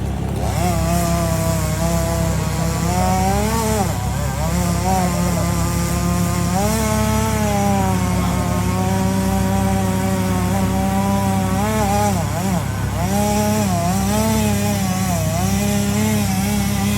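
Stihl chainsaw running at high revs, cutting wood. Its pitch sags under load and rises again several times.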